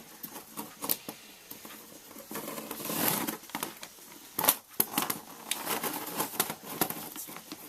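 Small hand tools and hard plastic suspension parts of a 1:8 nitro RC buggy clicking and scraping as a stuck part is worked loose, with a longer scraping rasp about three seconds in and a few sharp clicks after.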